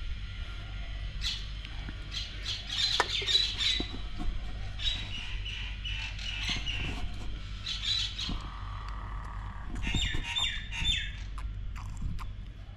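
Birds calling in bursts of rapid, harsh, high chattering squawks, several clusters a few seconds apart, over a steady low hum.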